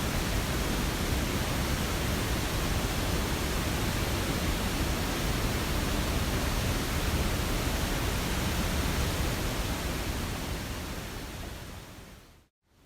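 Steady rushing water noise, even and unbroken, that fades out over the last couple of seconds.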